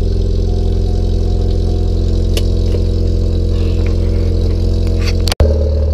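Chevrolet Cobalt SS engine idling steadily just after a cold start, its first start in almost a month. The sound cuts out abruptly for an instant near the end, then the idle carries on.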